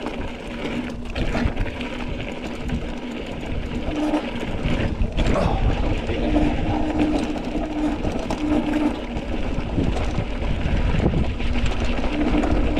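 Mountain bike riding on a dirt trail: wind buffeting the microphone and tyres rumbling over the ground, with a steady buzz, typical of the rear hub freewheeling, coming in about four seconds in and again near the end.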